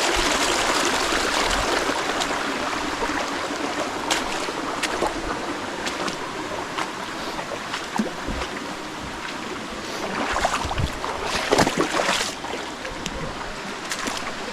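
Shallow creek running, with splashing, sloshing steps of someone wading through the water, busier and louder toward the end.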